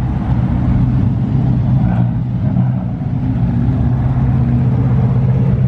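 A car engine running steadily at low revs as the car rolls slowly by: one even, low drone with no revving.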